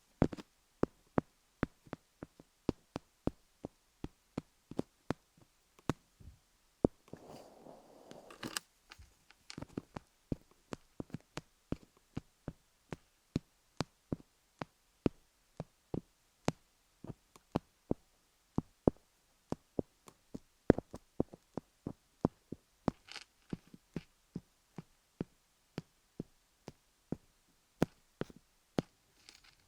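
Colored pencil tapping on a rhinestone-studded dummy head: sharp, crisp taps, about two or three a second, with a brief scratchy rub about seven seconds in.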